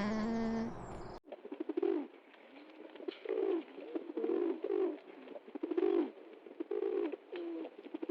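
A pigeon cooing, a run of low repeated coos about one every second. It is preceded by a steady humming tone that cuts off abruptly about a second in.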